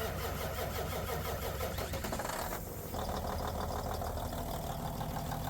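Small diesel engine of a truck APU, a Cat C0.5, running with a fast, even firing beat that shifts briefly about halfway through.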